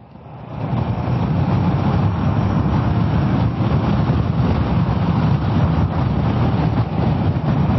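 Kawasaki ER-6f motorcycle's 650 cc parallel-twin engine and the rush of wind and road noise while riding, building over the first second as the bike pulls away, then holding steady.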